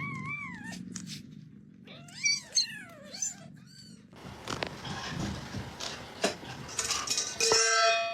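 Cat meowing and yowling: one short call, then a longer run of wavering, bending calls about two seconds in.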